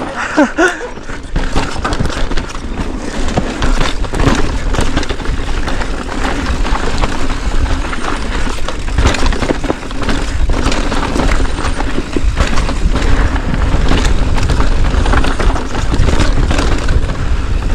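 Continuous rushing noise with a low rumble, broken by frequent sharp clacks and rattles.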